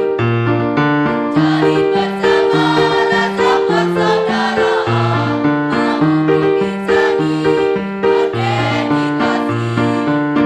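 A choir singing a march in Indonesian, accompanied by an electronic keyboard playing steady chords over a moving bass line.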